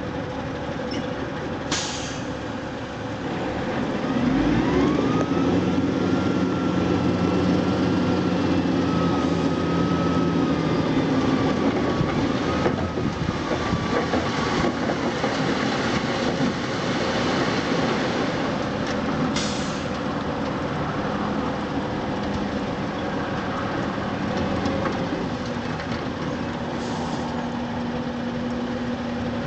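Old Western Star dump truck's diesel engine running, then revving up about four seconds in as the box is raised to dump a load of pit run. A high whine rises and holds for about ten seconds, and a few brief sharp noises stand out.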